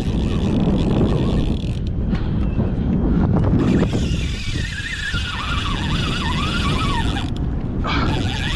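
Wind buffeting the microphone with water noise from the kayak, while a spinning reel's drag buzzes in two long runs as a hooked tarpon pulls line.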